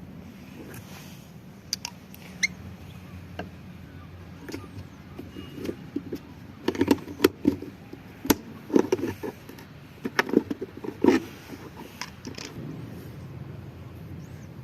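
Repeated sharp knocks and clatters from hands and tools working on washing machine parts, a few at first and then in a dense run from about six to eleven seconds in, over a steady low hum.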